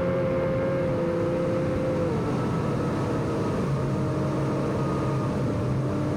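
A vehicle driving along, with steady engine and road noise under a humming whine. The whine's pitch drops a little about two seconds in.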